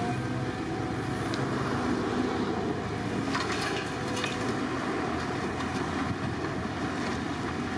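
Diesel engine of heavy earthmoving machinery running steadily, with a short spell of clanking about halfway through.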